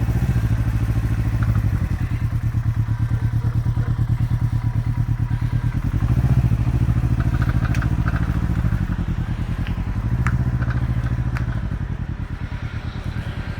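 Can-Am Ryker 600's twin-cylinder engine running at low speed with a low pulsing exhaust note. It swells a little about six seconds in and again around ten seconds, then eases off near the end.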